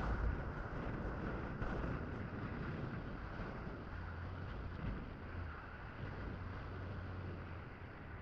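Honda CMX500 Rebel's 471 cc parallel-twin engine running steadily while riding, a low steady hum under heavy wind noise on the microphone, which is muffled by tape over it. The overall level eases slowly toward the end.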